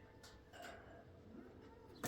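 Near silence: room tone with a few faint, indistinct soft sounds.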